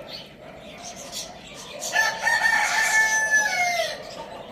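A rooster crows once: one call of about two seconds, starting about two seconds in, held level and then dropping in pitch at the end. Faint chirping of small birds runs beneath it.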